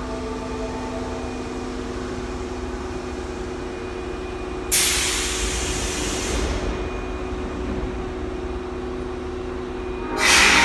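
Osaka Metro Midosuji Line subway train at the platform with a steady electrical hum, broken by two sudden hisses of compressed air, one about five seconds in and another near the end.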